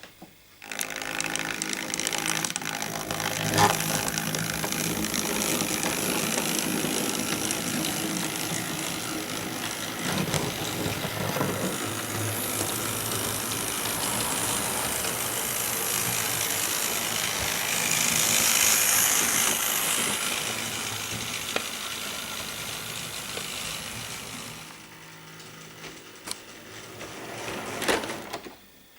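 Model railway locomotive running on the track: its small electric motor and gears whir steadily with a mechanical rattle, starting about half a second in, dropping in level near the end and then stopping.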